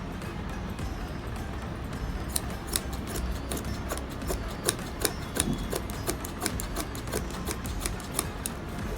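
Scissors snipping over the pile of a hand-knotted carpet, trimming it to an even length: a run of sharp, irregular clicks, several a second, starting about two seconds in.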